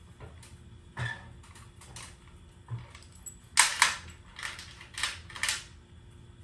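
A series of sharp knocks and clicks: a few single ones in the first half, then a louder quick run of about five about halfway through.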